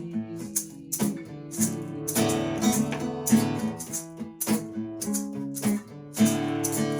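Instrumental passage of strummed acoustic guitar with hand percussion, a shaker-like rattle, keeping the beat; no singing.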